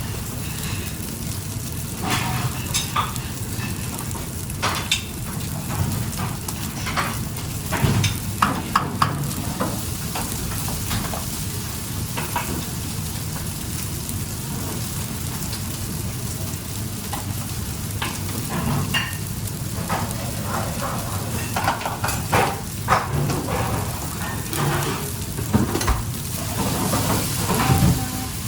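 Food sizzling in a frying pan, with scattered clicks and scrapes of a utensil stirring it.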